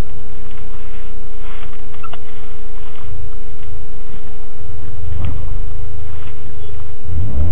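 Car engine and road noise heard from inside the cabin while cruising: a loud, steady low rumble with a faint steady hum over it. The rumble swells near the end as the car starts to accelerate.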